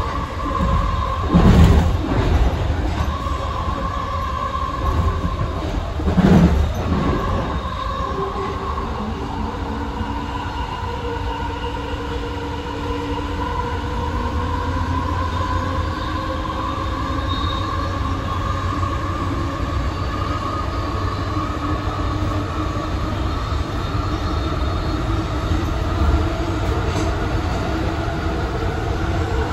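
AirTrain JFK Bombardier ART 200 car running along its elevated guideway, heard from inside the car: steady running noise with a whine that rises slowly in pitch as the train speeds up. Two loud thumps, about five seconds apart, come near the start.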